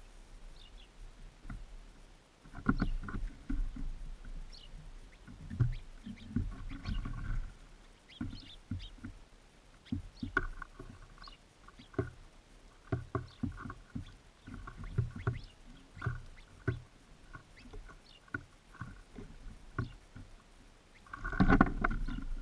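Birds feeding at a seed feeder right beside the microphone: irregular pecking, knocking and scrabbling clicks, thickest near the end, with a few faint high chirps.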